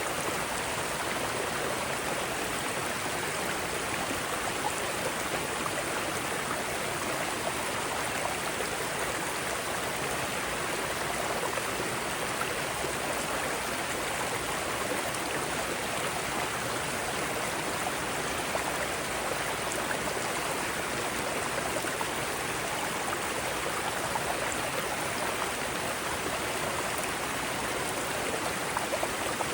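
Mountain stream flowing steadily over rocks: a constant rushing of water with no change.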